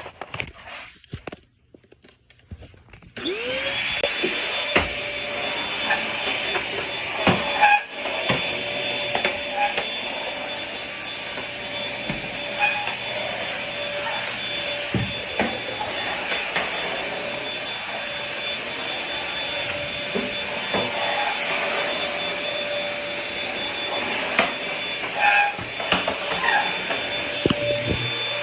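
Vacuum cleaner switched on about three seconds in, its motor spinning up with a rising whine, then running steadily while being used on the floor, with a few knocks and clicks along the way.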